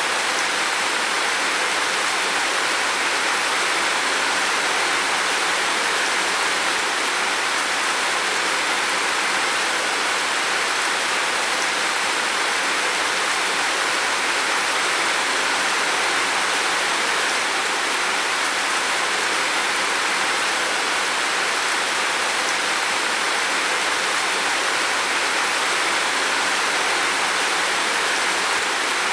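Heavy rain falling steadily on a roof: an even, unbroken hiss of many drops, with no single drop standing out.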